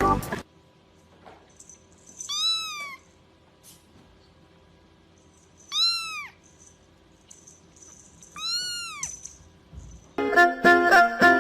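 A cat meowing three times, a few seconds apart, each meow rising and then falling in pitch. Music starts near the end.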